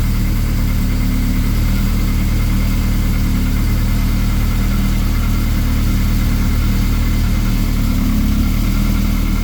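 Caterham 7 620S's supercharged four-cylinder engine idling steadily, just started on the first try after an earlier no-start.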